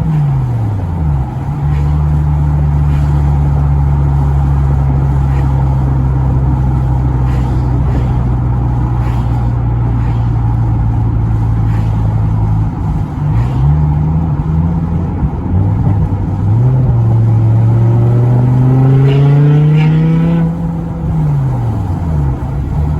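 BMW M6 E64's 5.0-litre V10 engine. Its revs drop and settle to a steady idle, then it gives a quick throttle blip, builds revs more slowly, and drops back.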